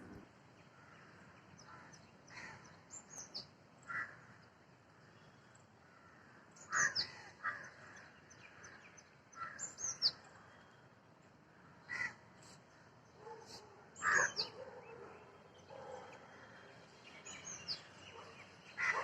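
Birds calling in separate bursts: short harsh calls mixed with high, quick chirps that sweep downward.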